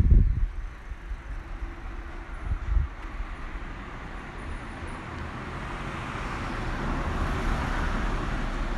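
A car passing along the street: its tyre and engine noise slowly grows louder to a peak late on, then begins to fade. A brief low rumble comes at the very start.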